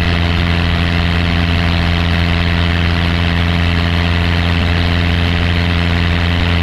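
Piper light aircraft's piston engine running steadily at constant power, a deep even drone with no change in pitch.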